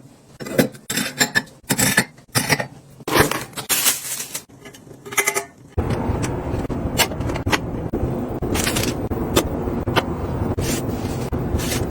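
Snack packages and containers handled: crinkles, taps and small clinks. About halfway through, a steady low hum suddenly sets in beneath further taps and clicks.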